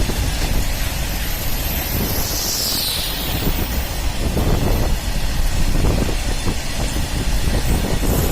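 Freight train of BCNA covered wagons, hauled by a WAG-12 electric locomotive, rolling past: a steady rumble of wheels on the rails with repeated clatter, and a high whine that falls in pitch about two seconds in.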